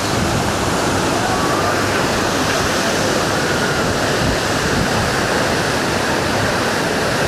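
Large waterfall crashing into its pool, a loud, steady rushing roar.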